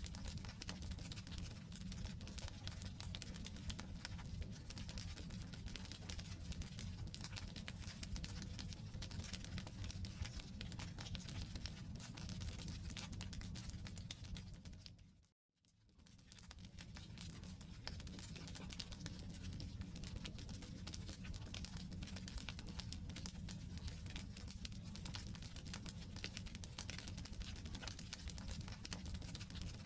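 Wood campfire crackling with dense small pops over a low rumble of the flames. About halfway through, the sound fades briefly to silence and then fades back in.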